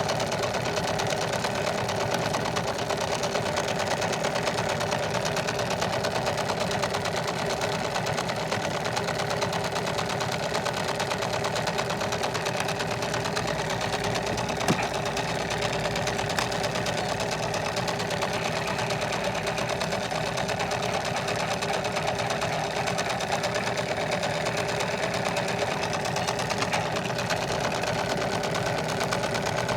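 Washing machine running steadily, its motor and drum making a continuous even mechanical hum, with a single short click about halfway through.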